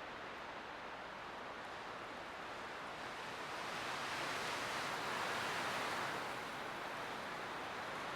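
Light wind blowing steadily, a soft rushing that swells about four seconds in and eases back a little after six seconds.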